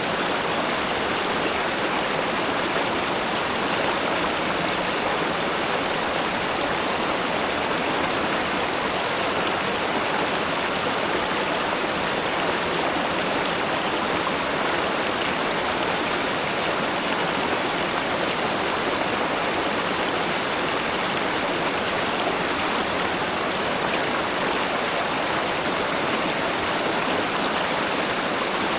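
Steady rushing of a spring-fed river or stream flowing over rocks, an even wash of water noise that does not change.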